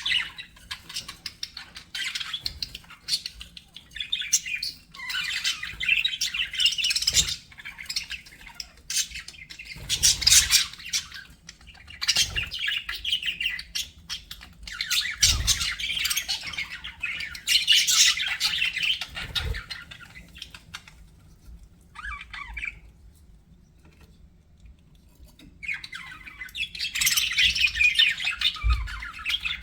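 Budgerigars chattering, chirping and squawking in busy overlapping bouts, with a quieter lull about two-thirds of the way through, then loud chatter again near the end. A few soft low thumps are mixed in.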